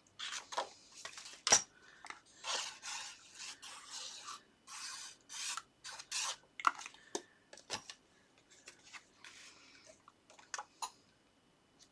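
Paper and card being handled and rubbed: a run of short rustling swishes with a few sharp taps, the loudest about a second and a half in, growing sparse near the end.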